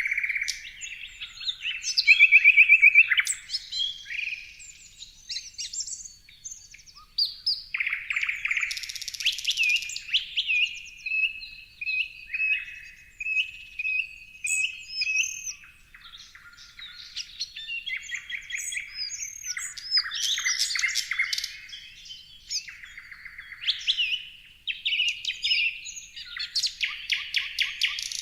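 Several songbirds chirping and singing together, a dense mix of overlapping chirps, whistles and trills, the loudest a fast trill about two seconds in.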